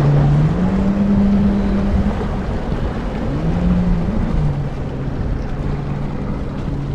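Jet ski engines droning on the water, their pitch stepping up about half a second in and rising and falling again around four seconds as the throttle changes, over steady wind and water noise.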